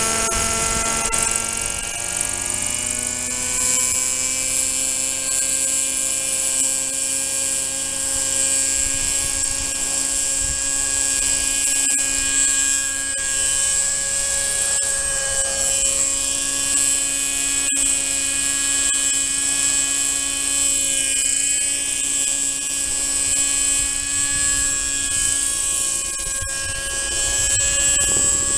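OS 32FH two-stroke glow engine of a Kalt RC helicopter running steadily at speed, with a high-pitched whine over it. Its pitch climbs a little a few seconds in, then holds nearly steady.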